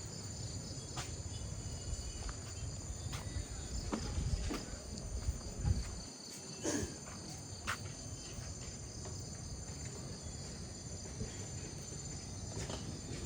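Insects chirring in a steady, high-pitched evening chorus, with scattered footsteps and light knocks over a low rumble.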